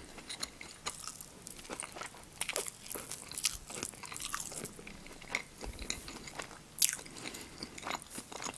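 A person biting and chewing a forkful of blood sausage: irregular soft mouth clicks and smacks, with one sharper click near the end.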